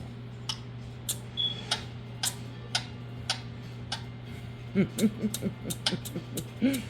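A run of short, sharp clicks at roughly two a second, with a brief string of low murmured sounds between about five and seven seconds in.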